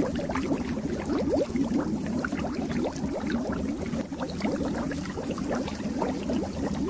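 Water bubbling in a fish tank: a dense, continuous stream of small bubbles gurgling and popping over a low rumble.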